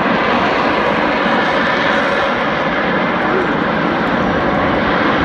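Harrier jump jet's Pegasus turbofan engine running, a loud, steady jet noise that holds nearly level throughout.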